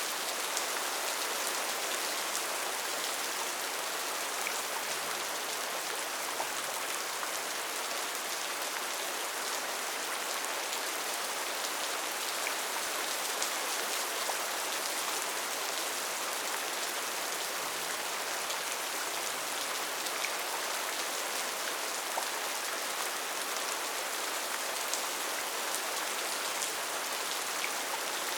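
Steady rainforest rain: a dense, even hiss of rainfall with scattered individual drops ticking through it.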